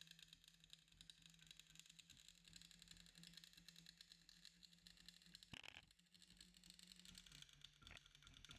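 Near silence: a faint steady low hum with light hiss, broken by two soft clicks about five and a half and eight seconds in.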